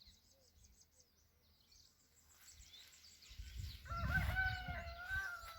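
A rooster crowing once, a long held call at a steady, slightly falling pitch starting about three and a half seconds in, over a low rumble of wind on the microphone. Faint small-bird chirps sound before it.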